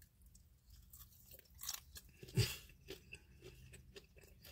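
Someone biting and chewing a breaded fried pickle fry: faint, irregular crunching of the crispy coating, with the loudest crunch about two and a half seconds in.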